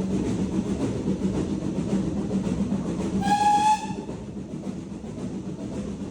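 Steam train running with a steady low rumble and rail clatter. About three seconds in comes a single short toot of the steam locomotive's whistle, BR Standard Class 4 tank 80151, slightly rising in pitch.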